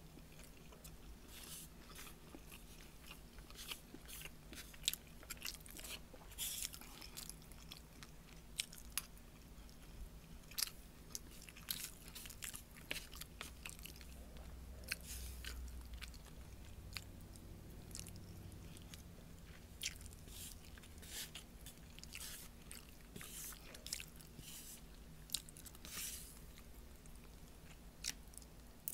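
Close-up chewing of a mouthful of meatloaf, rice and string beans: an irregular run of small, soft mouth clicks.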